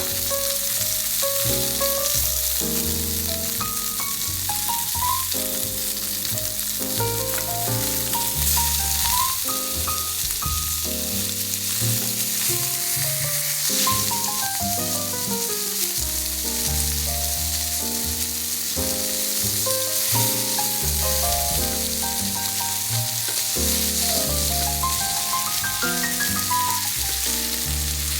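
Food frying and sizzling in a pan, a steady hiss, under background music with a melody of distinct notes over a bass line.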